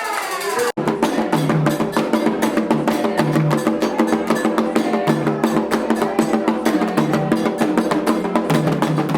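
Candomblé ceremonial percussion: hand drums and struck percussion playing a fast, dense rhythm. Singing is heard before the sound cuts out briefly just under a second in.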